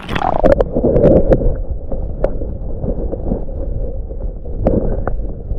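Strong wind buffeting the microphone with a low rumble, broken by a falling whoosh at the start and several sharp knocks.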